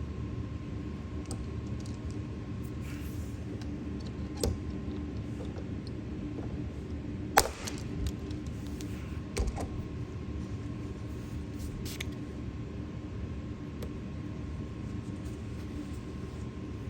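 Steady low hum with a faint constant tone, broken by a few short clicks and taps. The loudest comes about seven seconds in.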